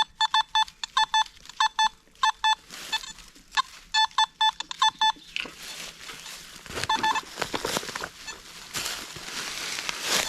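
Metal detector giving rapid clusters of short, same-pitched beeps as it passes over a target. About halfway through the beeping mostly stops and a rustling, scraping noise of leaf litter and soil being disturbed takes over, with a few more beeps in between.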